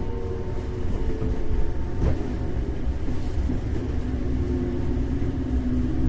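Cabin running sound of a JR 415 series 1500-subseries electric multiple unit: a steady low rumble from the wheels on the rails, with a faint steady hum, and a single sharp click about two seconds in.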